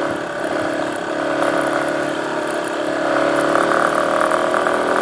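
Dirt bike engine running while riding, its pitch rising slowly and growing a little louder over the last couple of seconds.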